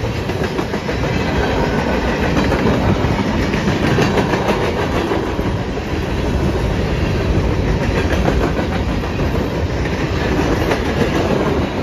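Freight cars of a mixed freight train rolling past close by, with the steady rumble of wheels on rail and the clickety-clack of wheels crossing rail joints.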